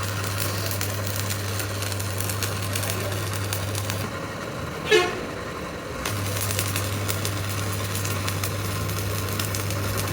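Workshop lathe turning a large truck axle: a steady low motor hum with a scratchy, crackling cutting noise. The hum drops out for about two seconds midway. Just before it returns there is one short, loud, high-pitched toot.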